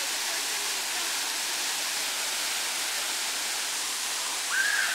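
Steady rushing roar of a waterfall pouring into its plunge pool, an even hiss with no breaks. Near the end, a brief high-pitched sound rises and falls above it.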